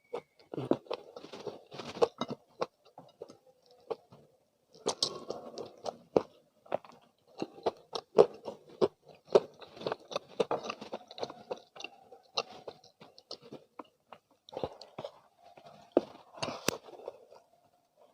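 Close-miked chewing and crunching while eating crispy spicy fried chicken with rice: irregular crackly bites and chews, pausing briefly a couple of times.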